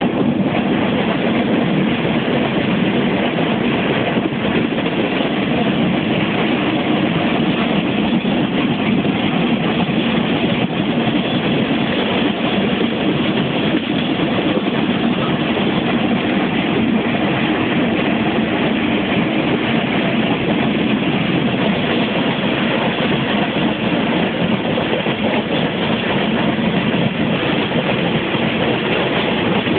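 A train running on the rails, giving a loud, steady rumble that keeps on without a break.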